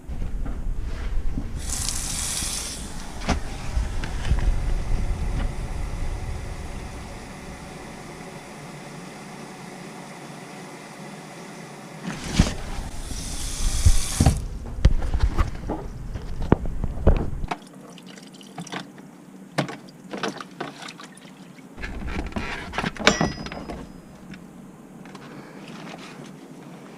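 Water running from a faucet in two short hissing spells with a steadier flow between them, along with knocks and clatter from handling.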